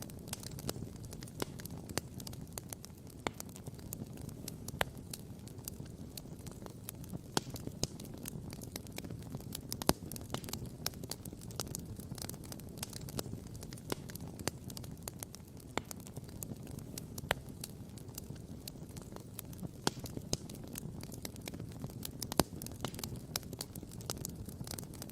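Wood campfire crackling and popping, several sharp snaps a second with a few louder pops, over a steady low rush.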